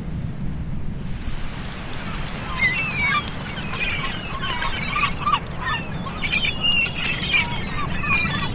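A flock of birds calling, many short overlapping calls starting about a second in, over a steady low rumble of wind.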